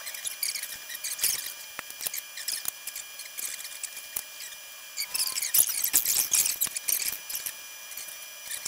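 Rapid clicks, scrapes and small squeaks of handling metal parts or hand tools, in an irregular run that is busiest and loudest from about five to seven seconds in.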